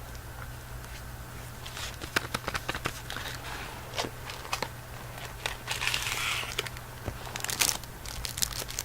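Chocolate bar wrapper being opened by hand: crinkling and tearing with scattered sharp clicks, a longer rustle about six seconds in, over a steady low hum.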